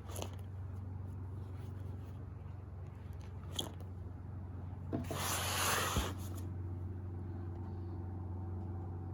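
Photos and paper being handled: a light tap about three and a half seconds in, then a second or so of paper sliding and rustling that ends in a click, over a steady low hum.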